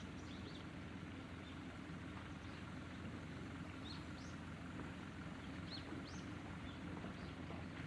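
Small birds chirping, short rising calls every second or so, over a steady low rumble.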